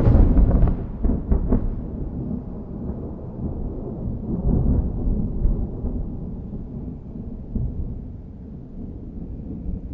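A close thunderclap: it breaks in with a loud crack, a few sharper cracks follow in the first second or two, then a long, low rumble that slowly dies away.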